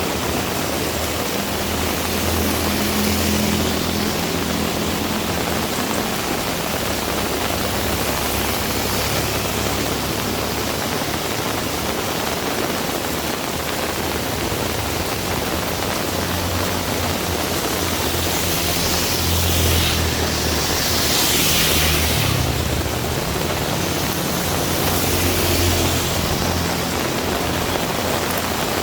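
Heavy rain pouring steadily, with a low rumble of traffic underneath. The rain swells louder twice in the second half, most strongly about twenty seconds in.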